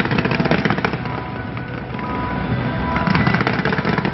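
A fireworks barrage: many rapid, overlapping bursts and crackles, with music playing underneath.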